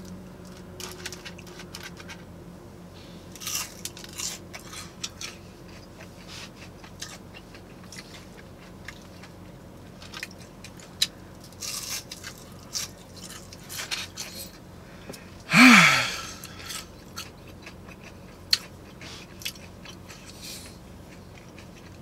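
Close-up chewing and crunching of fried onion rings, in irregular bites and crackly crunches. One short, loud vocal noise with a falling pitch comes about two-thirds of the way through.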